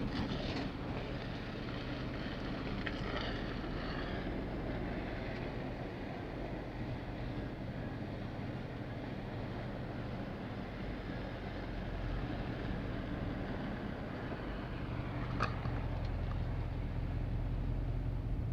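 Ford F-350 Super Duty pickup with a truck camper creeping along a rough dirt road: a steady low engine drone with road and wind noise, and a brief clatter about fifteen seconds in.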